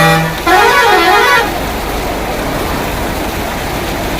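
A vehicle horn honks twice in the first second and a half: a short steady toot, then a longer one that wavers in pitch. A steady hiss of rain and traffic runs behind.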